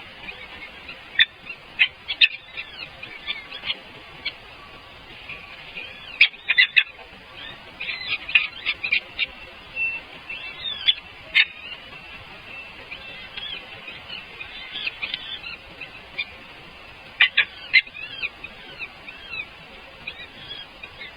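Small birds chirping: many short, high calls in scattered bursts over a steady faint background.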